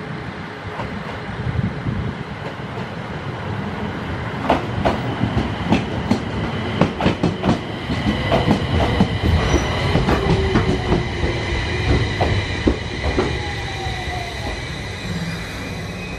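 An Aoimori Railway electric train pulling into the platform: low rumble of the wheels, with sharp clacks over the rail joints building from a few seconds in. High squealing sets in partway through and a falling whine as the train slows.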